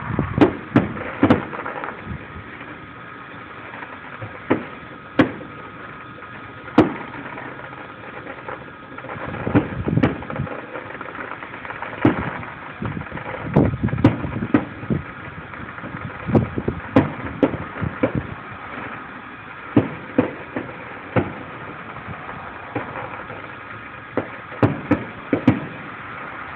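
Fireworks going off: a long series of sharp bangs at irregular intervals, some single and some in quick clusters, over a steady background rumble, heard through a cellphone microphone.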